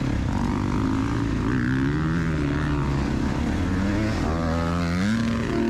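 KTM two-stroke dirt bike engine running under load, its pitch rising and falling with the throttle and climbing sharply near the end.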